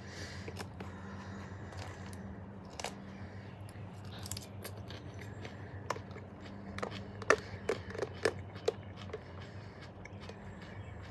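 Close-up eating and food handling: a run of sharp clicks and crunchy taps, thickest a little past the middle, over a steady low hum.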